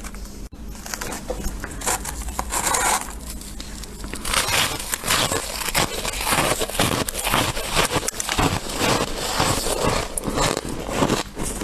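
A person biting and chewing freezer frost close to the microphone: squeaky, crunchy chewing that settles into a steady run of about two to three crunches a second from a few seconds in. A faint steady low hum runs underneath.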